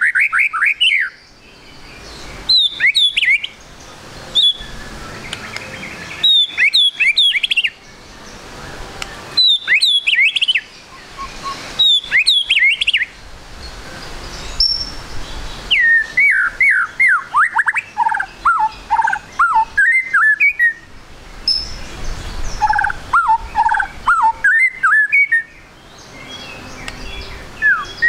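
Juvenile white-rumped shama (murai batu trotol) singing in short bursts of quick, sharply falling whistled notes, with brief pauses between bursts.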